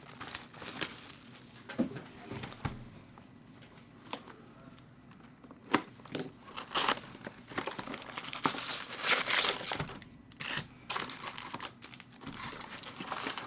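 Trading card pack wrappers and packaging being torn open and crinkled by hand: irregular crackling and tearing, busiest in the middle.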